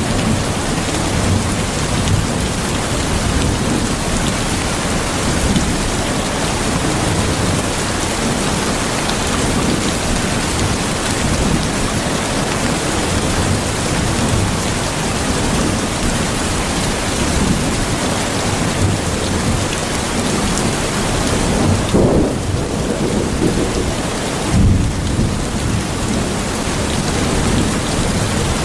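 Steady heavy rain hissing, over a continuous low rumble of thunder that swells twice near the end.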